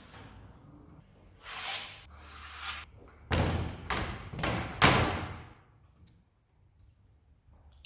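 Two short scraping swishes, then three heavy thuds about three quarters of a second apart, the last the loudest.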